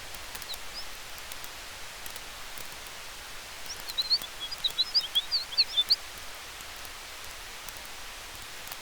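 Campfire crackling faintly over a steady hiss of wind through trees. About four seconds in, a flurry of quick high chirps lasts about two seconds and is the loudest sound.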